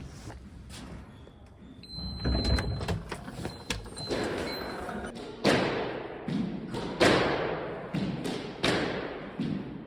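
A series of dull thuds, four louder ones spaced about a second and a half apart, each fading away over about a second.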